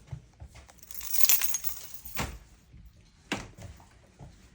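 Small hard objects being handled: a jangling, clinking rattle about a second in, followed by two sharp knocks.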